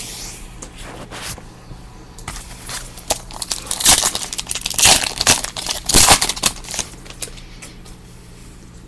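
Trading card packs being handled and opened: wrappers crinkling and tearing, with a busier stretch of rustling and tearing from about three and a half to six and a half seconds in.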